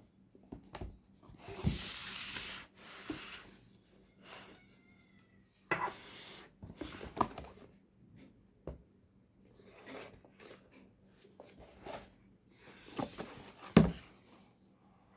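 A cardboard box and its packaging being handled and opened: rubbing, sliding and rustling scrapes broken by several knocks, the loudest a sharp thump about two-thirds of a second before the end.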